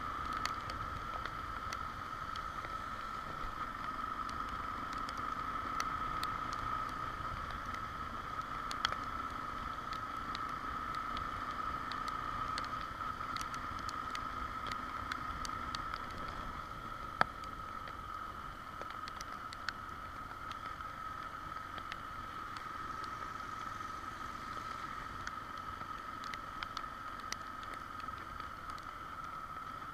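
Motorcycle on the move: a steady rush of wind and road noise with a constant high hum running through it. Scattered faint ticks sound throughout, with one sharper click about seventeen seconds in.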